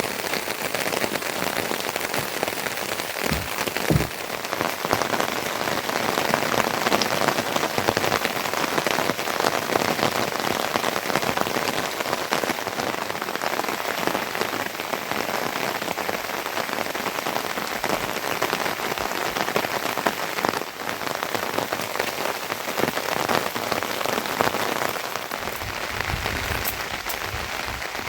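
Steady rain falling, a dense hiss of many drops, with a couple of low knocks about four seconds in.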